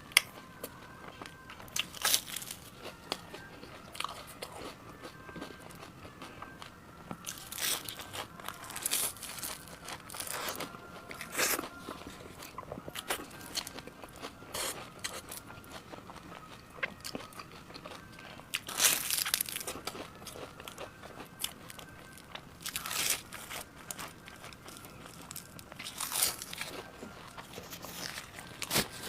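Close-miked eating: crisp, crunchy bites every few seconds, with softer crackly chewing in between.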